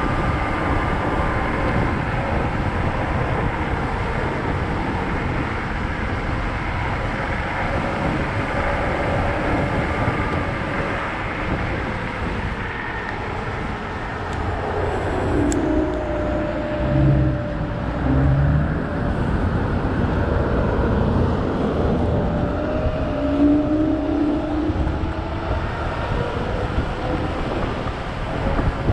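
Riding noise from a Kaabo Wolf GT Pro electric scooter: wind rushing over the microphone and road noise, with a steady whine running through it. There are a few louder low rumbles in the second half.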